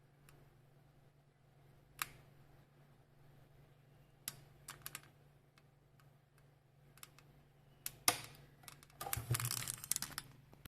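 Computer keyboard keys pressed: scattered single clicks, then a quicker run of keystrokes near the end, over a faint steady low hum.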